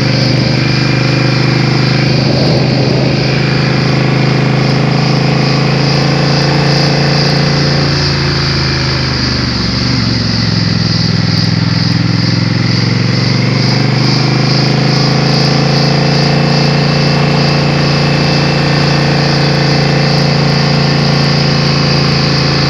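Motorcycle engine running under way. Its pitch dips about nine to ten seconds in, then climbs back up over the following seconds.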